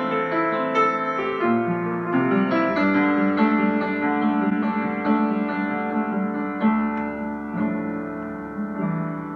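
Background piano music, notes struck one after another, slowly fading toward the end.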